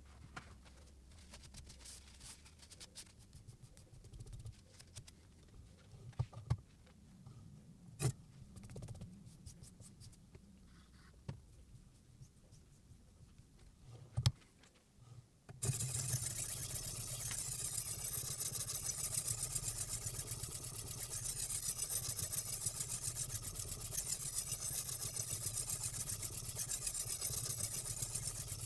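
Scattered clicks and knocks of handling a guided knife-sharpening rig, then, about halfway in, a steady, dense scraping that starts suddenly: a silicon carbide water stone being worked along a steel knife edge.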